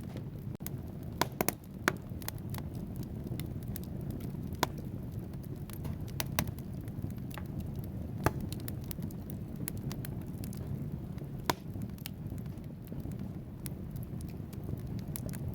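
Wood fire burning in a fireplace: logs crackling and popping irregularly over a steady low rumble of the flames, with a few sharper pops standing out.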